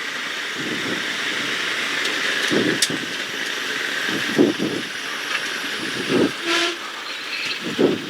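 Steady rushing noise inside a Carbon Cub light aircraft's cockpit in flight: propeller engine and airflow blending into a hiss, with a few brief low swells.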